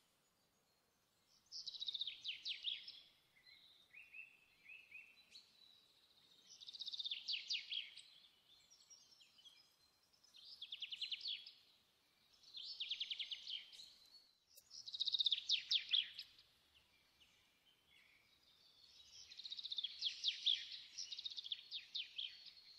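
A small songbird singing: about six short phrases of rapid, high trilled notes, each a second or two long, coming every few seconds.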